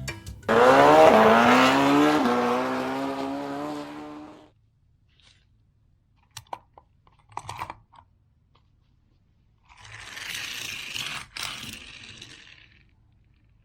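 A vehicle sound effect with a falling pitch for about four seconds. A few short plastic clicks follow, then about three seconds of scraping from die-cast toy cars being handled and rolled, with one sharp click partway through.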